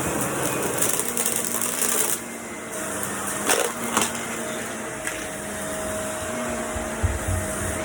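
Household vacuum cleaner running steadily with a humming drone, dropping a little in level about two seconds in, with a couple of sharp clicks a second or so past the middle.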